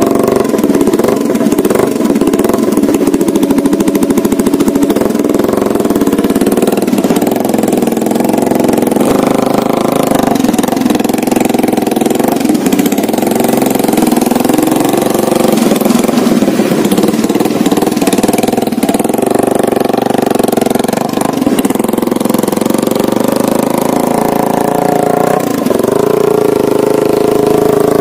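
Motorcycle engine running through a homemade coconut-shell exhaust, its note shifting up and down throughout.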